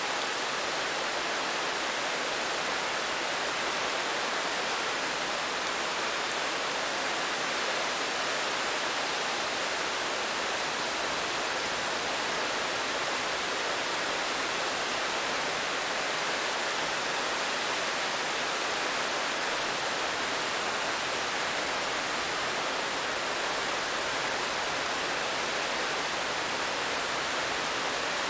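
Steady rain falling: a dense, even hiss with no separate drops standing out.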